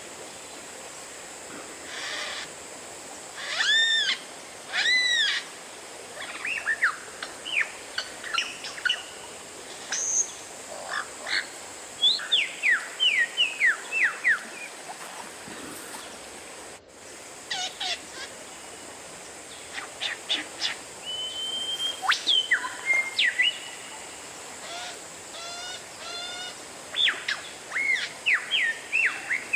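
Oriental magpie-robin singing: a varied song of clear whistles, arched notes and quick downward-slurred notes, delivered in separate phrases over a faint steady hiss. The sound cuts out for a moment a little past halfway.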